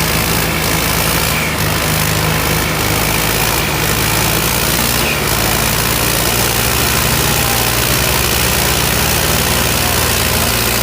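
Diesel tractor engines running steadily: a constant low hum with an even hiss of noise over it.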